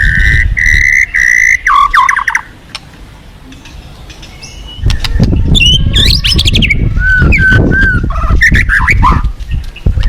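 White-rumped shama singing: a held whistle, then a quick run of notes, then after a short pause a string of varied whistles and chirps. A loud low rushing noise lies under the song and drops away for a couple of seconds in the middle.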